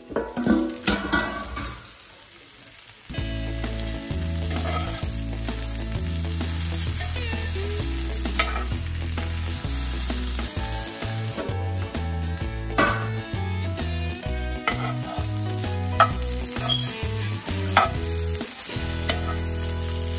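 Butternut squash cubes sizzling in oil in a cast-iron pan while a perforated metal spatula stirs them, with sharp clicks and scrapes of metal on the pan. A few clatters about a second in, as the metal lid comes off.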